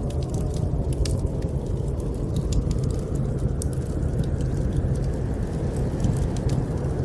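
Fireplace crackling with frequent sharp pops over a steady low rumble of blizzard wind.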